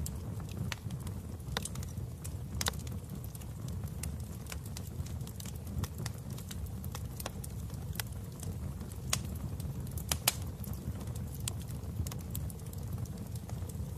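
Wood fire burning in a fireplace: a steady low rumble with irregular sharp crackles and pops, the loudest pops about ten seconds in.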